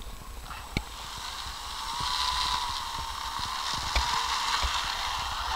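Propeller aircraft engine running, growing louder about two seconds in, with a few sharp clicks over it.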